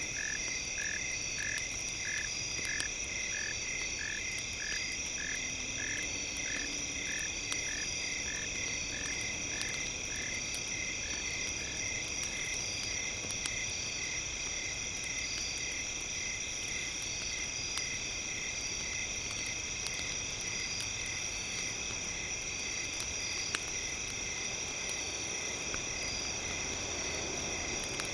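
A campfire and nature ambience bed. A croaking call repeats about twice a second and stops a little under halfway through, over a steady high-pitched drone and faint scattered fire crackles.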